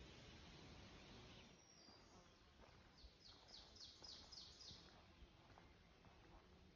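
A songbird singing a short phrase of about seven quick downslurred notes, roughly four a second, over a faint steady background hiss that drops away after the first second and a half.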